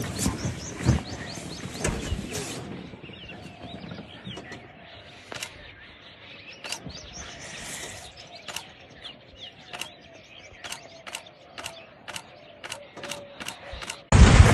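Birds chirping faintly, with a run of sharp, evenly spaced clicks, about one or two a second, starting about five seconds in.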